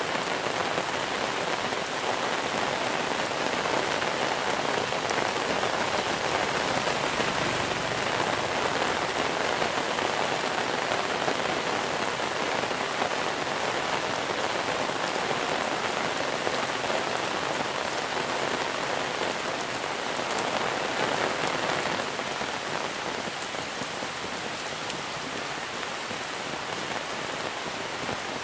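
Heavy monsoon rain falling steadily, a dense hiss of drops hitting surfaces, a little softer from about twenty seconds in.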